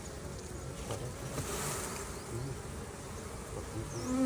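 Many honeybees buzzing around an open hive, a steady mass hum. One bee's buzz comes up louder and closer near the end.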